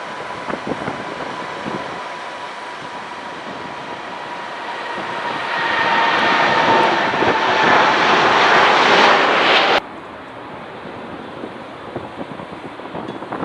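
Wide-body jet airliner passing close, its engine noise and steady fan whine swelling over several seconds to a loud peak, then cutting off suddenly about ten seconds in. Wind buffets the microphone throughout.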